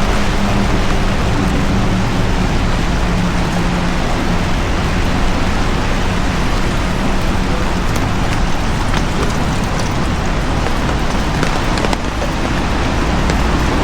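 Heavy rain falling steadily, with the low hum of a vehicle engine underneath that fades out over the first half.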